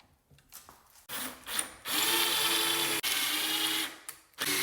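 Power drill boring pocket-screw holes in wood cabinet pieces. There is a short burst about a second in, then a steady run of about two seconds, a brief stop, and the drill starts again near the end.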